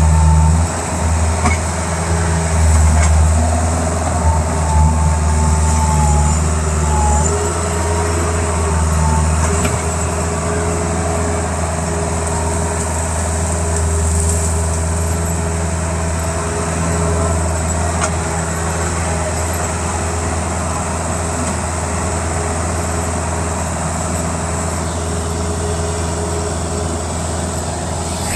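Bobcat skid-steer loader's diesel engine running, louder and uneven for the first several seconds, then settling to a steadier drone.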